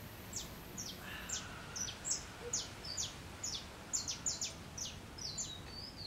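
Small birds chirping: a quick run of short, high notes, each sliding downward, about three a second, over a steady background hiss.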